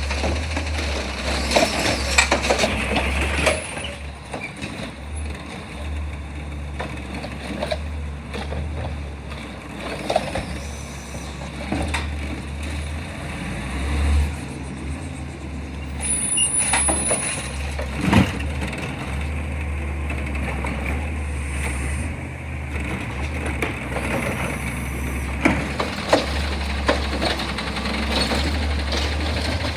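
Garbage truck's diesel engine running steadily, with scattered knocks and clanks from the collection work.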